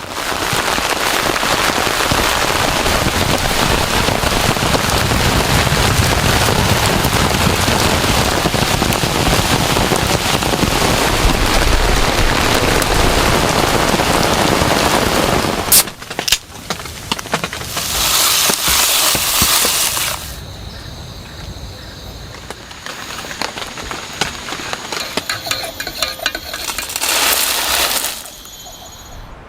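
Heavy rain pouring steadily for about the first fifteen seconds. A sharp crack follows, then shorter stretches of rain noise that change abruptly in loudness, with quieter passages in between.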